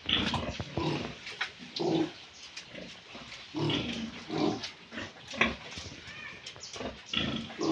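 Pigs grunting in short, separate bursts, several times over a few seconds.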